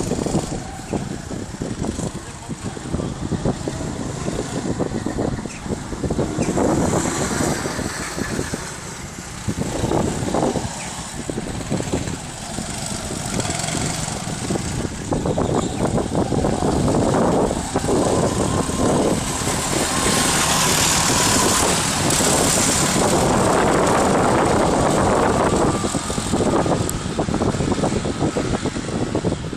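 Go-kart engines running on a track, their sound rising and falling as karts pass, with an engine whine that is loudest and steadiest about two-thirds of the way through.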